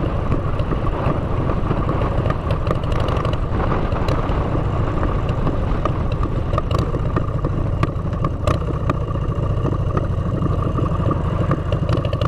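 Motorcycle engine running at a steady cruise through aftermarket exhaust pipes, a deep, even drone with a few sharp clicks.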